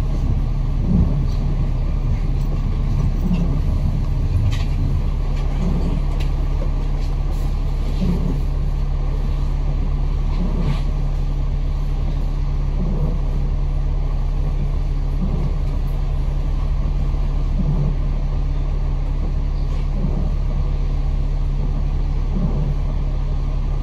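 A bus engine running steadily, heard from inside the passenger cabin, with a faint short sweep repeating about every two and a half seconds.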